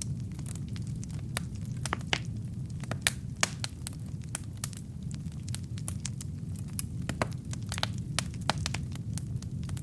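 Wood fire crackling: logs burning with a steady low rumble of flame and many sharp irregular pops and snaps.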